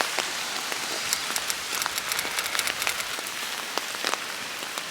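Steady rain falling, with many scattered sharp ticks of drops striking close by.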